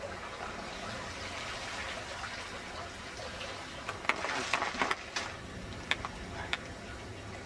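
Water-filled FloodSax gel bags being handled and pressed together into a barrier: a wet, watery hiss with a quick cluster of sharp clicks and knocks about two-thirds of the way through, then two more single knocks.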